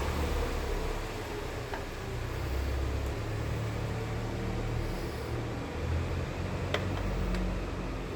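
Steady low background hum with a few light clicks, about two seconds in and twice near the end, as small motorcycle brake parts and tools are handled.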